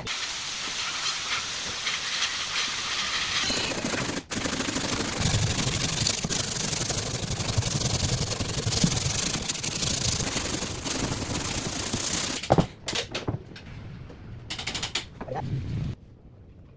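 Power sanding: a steady, rough hissing rasp of abrasive on a hull panel that breaks off briefly about four seconds in and stops about twelve and a half seconds in, followed by a few short scraping bursts.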